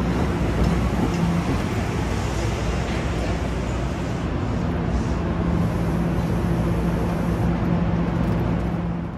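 A train running past at a station: steady, loud noise of wheels and running gear with a constant low hum. The sound drops off near the end.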